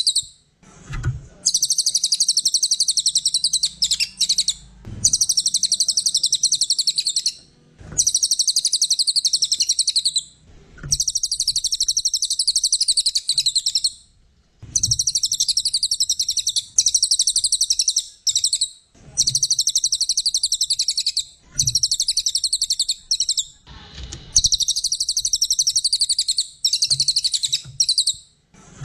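A cililin songbird singing in energetic 'gacor' form: rapid, high, buzzy trills in phrases of two to four seconds, repeated with brief pauses between them. Soft low knocks come in now and then.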